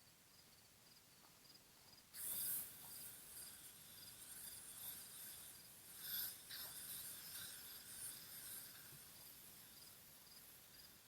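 Aerosol bug spray hissing in repeated bursts, starting suddenly about two seconds in, with the strongest bursts then and about six seconds in. A cricket chirps steadily about three times a second underneath.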